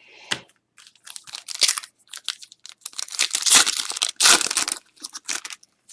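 Trading card pack wrappers crinkling and tearing as hockey card packs are opened, with the cards handled and slid against each other: an uneven run of rustling that is loudest in the middle.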